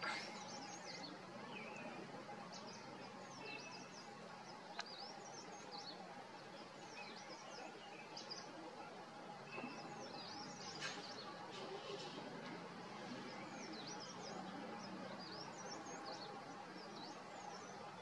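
Wild birds chirping and calling: many short, high chirps and twittering notes scattered throughout, over a faint steady background hum.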